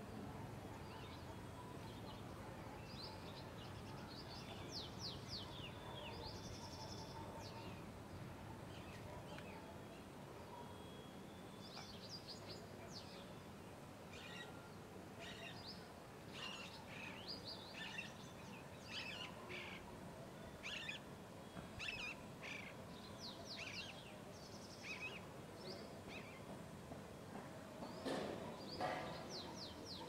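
Small songbirds chirping and twittering: many short, high, quickly sweeping calls in scattered clusters over a steady low background hum, with a louder call near the end.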